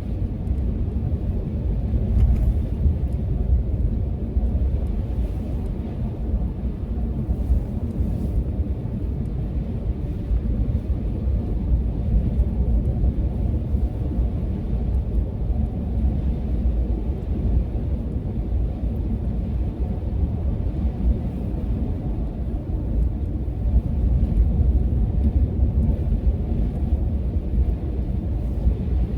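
Wind buffeting the microphone in a snowstorm: a low, rushing rumble that swells and eases with the gusts.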